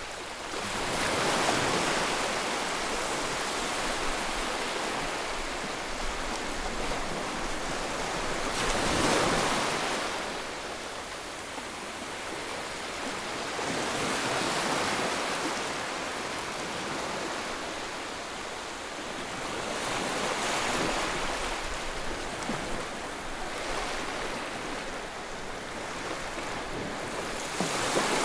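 Ocean surf: waves breaking and washing in, the rush swelling and easing every several seconds.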